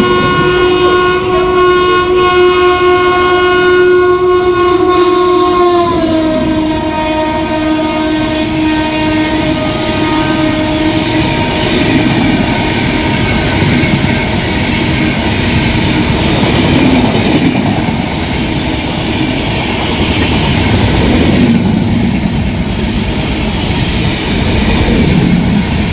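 A WAP-7 electric locomotive's horn sounds a long, loud chord that drops in pitch about six seconds in as the locomotive passes. The passing coaches then rumble and clatter by.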